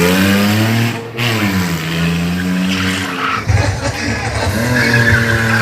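Car engine revving: the pitch climbs, falls back about a second in, then holds at a steady raised speed, with music playing underneath.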